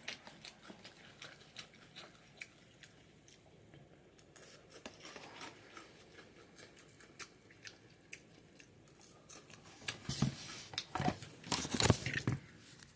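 Close-miked chewing of ramen noodles: a run of small wet mouth clicks, getting louder and busier near the end.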